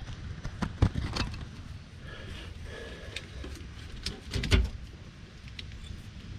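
Ratchet tie-down strap being released: scattered sharp metallic clicks and knocks, with a louder thump about four and a half seconds in.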